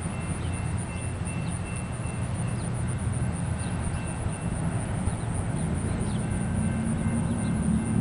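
Steady low rumble of a freight train rolling by out of view, slowly growing louder near the end.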